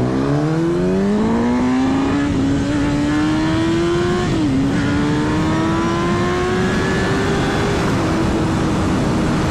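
Motorcycle engine accelerating hard, its pitch climbing, dropping sharply at an upshift about four and a half seconds in, then climbing again before easing off near the end. The pull is hard enough to lift the front wheel into an unintended wheelie.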